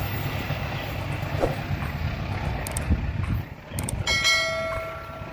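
Passenger train's wheels rumbling on the rails as it runs away, the rumble dying down after about three seconds. About four seconds in come a couple of clicks and a ringing bell chime: a subscribe-button sound effect.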